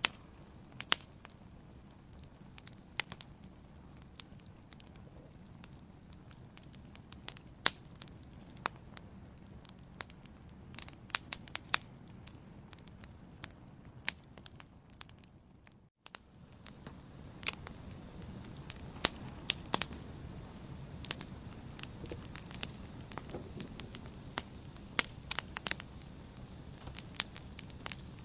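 Wood fire in a fireplace crackling, with irregular sharp pops and snaps over a low steady rumble of flames. The sound cuts out for a split second a little past halfway, then comes back with a fuller rumble and more frequent pops.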